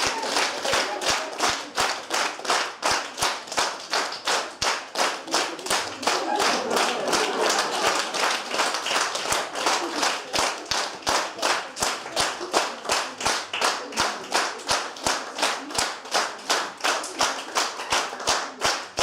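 Crowd clapping in unison, steady and rhythmic at about two and a half claps a second, over a faint murmur of voices.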